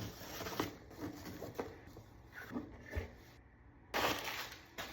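Packaging being handled during an unboxing: irregular short bursts of rustling and rubbing, like paper and a cardboard box being opened and moved.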